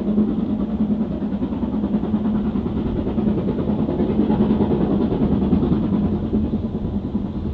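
Steam train running past, a steady rumble with a rapid beat that grows a little louder toward the middle.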